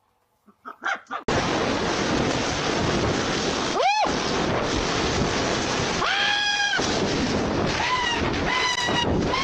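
A steady, loud rushing noise begins just over a second in. Over it come four short high-pitched animal-like calls: the first is a sharp upward whoop about four seconds in, and the second a held cry about six seconds in.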